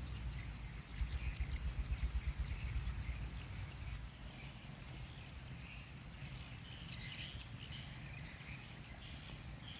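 Outdoor ambience: a gusty low rumble of wind on the microphone, heaviest in the first few seconds and then easing, with faint high chirping.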